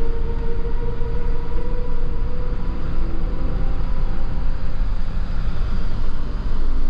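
Steady rumble of a Jeep Wrangler JK driving on snowy roads, engine and tyre noise heard from inside the cabin.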